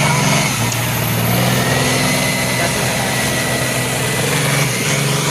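Allis-Chalmers 200 tractor's diesel engine running loudly and steadily, with a thin high whine above the engine note.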